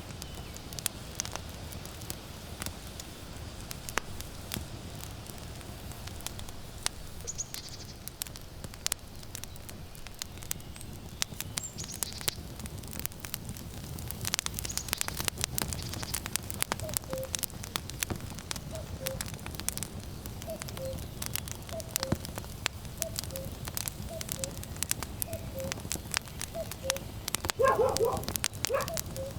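Firewood burning with sharp, irregular crackles and pops over a low rushing of flame and wind. From about halfway through, a common cuckoo calls its two-note "cuck-oo" over and over, about once a second, and near the end a dog gives a short, louder bark.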